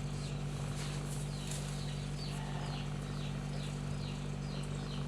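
Kittens suckling from their mother, a soft rhythmic smacking about three times a second, over a steady low hum.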